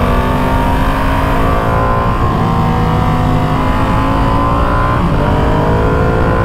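Ducati Panigale V2's twin-cylinder engine accelerating hard, its pitch climbing and dropping at an upshift twice, with wind rushing past at about 100 km/h.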